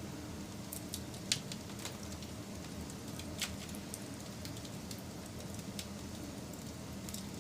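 Wood fire crackling: irregular sharp pops and snaps, about a dozen scattered through, the loudest about a second in, over a steady low rumble of burning.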